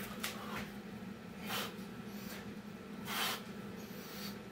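A man breathing hard mid-burpee: several short, sharp, hissy exhales at uneven intervals, over a steady low hum.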